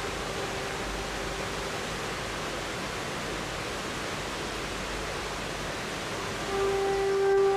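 River water flowing: a steady, even rush. A steady tone comes in about six and a half seconds in and grows louder toward the end.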